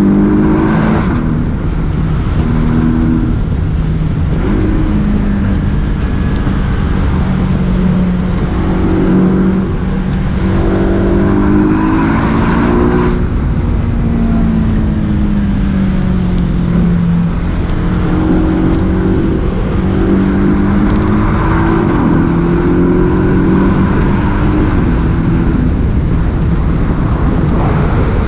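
Porsche 718 S's turbocharged 2.5-litre flat-four running at speed, its pitch rising and falling and stepping as the car accelerates, lifts off and changes gear. Underneath is a steady low rumble.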